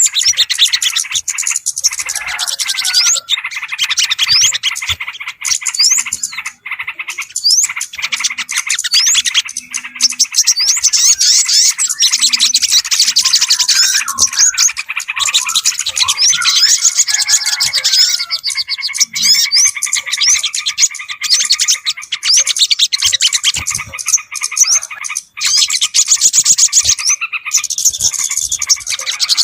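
Bird-lure recording of many small songbirds calling at once, mixed for trapping sooty-headed bulbuls and other small birds: dense, overlapping rapid chirps, trills and whistles without a break.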